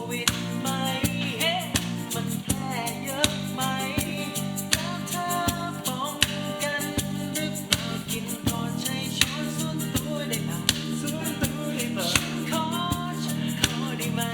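A band playing a Thai pop song: a singer over instrumental backing with a steady beat.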